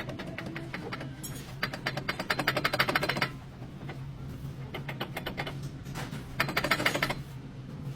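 Rapid clicking from a worn front CV joint on a Toyota Camry, coming in runs of a second or two, the longest about a second and a half in, over a steady low hum.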